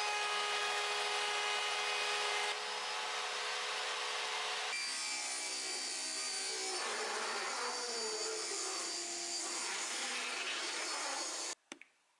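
Electric power tool running against wood, a steady motor whine under a rough working noise whose pitch wavers as the load changes; it cuts off suddenly near the end.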